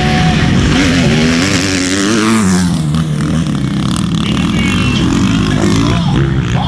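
Motocross motorcycle engines running hard, their pitch rising and falling as the throttle is worked, over a steady lower drone.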